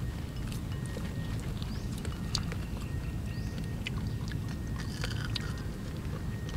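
People eating grilled meat: faint chewing and small mouth clicks over a steady low rumble.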